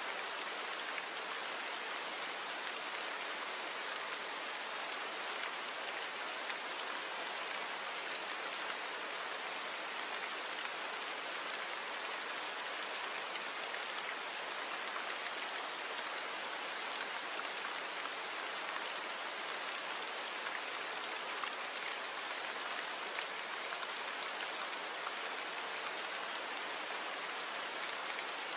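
Steady rain falling, an even, unbroken hiss of many small drops with no single hits standing out.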